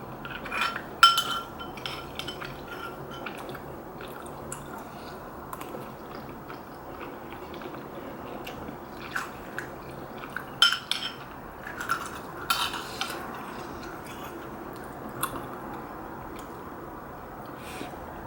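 Eating utensils clinking and scraping against a soup bowl at irregular intervals. The loudest strikes come about a second in and again around the middle, one leaving a brief ringing tone.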